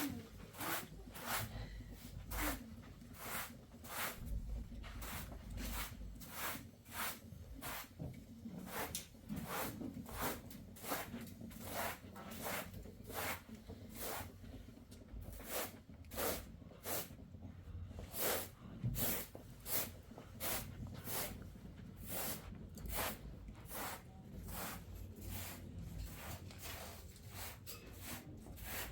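A long run of short, sharp scraping or crunching strokes, roughly one to two a second in an uneven rhythm.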